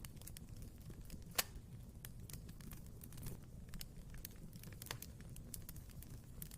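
Wood fire crackling in a fireplace: a low rumble of burning with irregular small pops and snaps, and one sharp, louder pop about a second and a half in.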